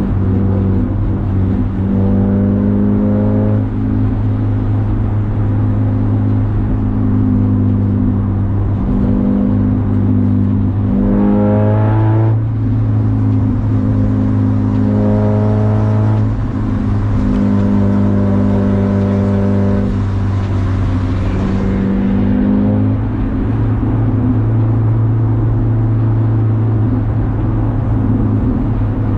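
Race car engine under hard acceleration, its pitch climbing through the revs and dropping back several times as it shifts and lifts, over a steady low drone.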